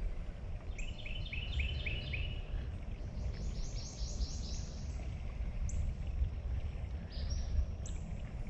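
A songbird singing quick runs of repeated chirps, a lower run followed by a higher one, with a few more notes near the end, over a steady low rumble.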